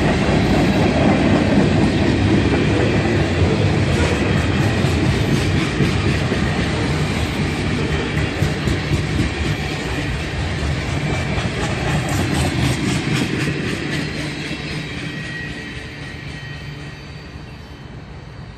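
Train rolling past with wheels clacking over the rail joints, its sound fading away over the last few seconds as it moves off.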